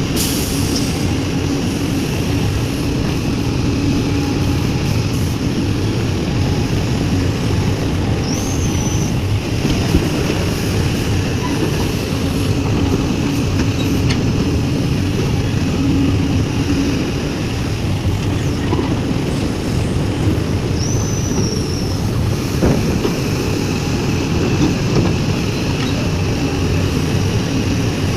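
Sumitomo SH350 hydraulic excavator's diesel engine running steadily under working load, with a constant low hum and two brief high squeaks a few seconds apart.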